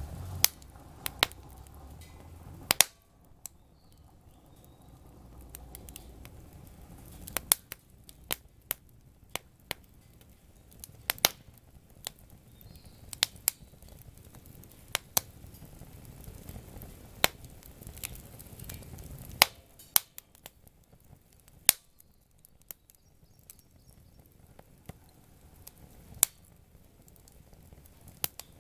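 Campfire wood crackling and popping: irregular sharp snaps, a handful of them loud, over a low, uneven rumble.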